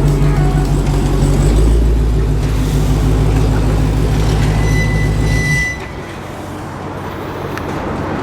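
A vehicle engine running steadily, then stopping abruptly about five and a half seconds in, leaving quieter background noise.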